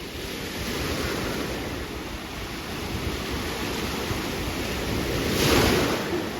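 Ocean surf washing up on a beach, with wind buffeting the microphone; a louder wave breaks near the end.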